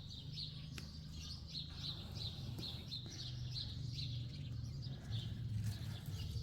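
Small birds chirping in a steady run of short, high chirps, about two or three a second, over a low steady hum.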